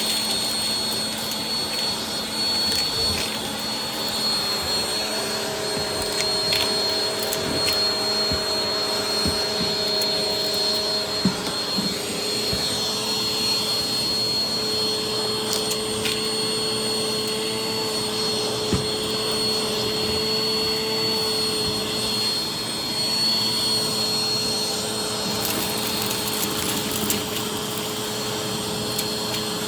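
A vacuum cleaner running steadily, with a high whine over its motor note; the lower note shifts slightly in pitch now and then, and there are a few light clicks.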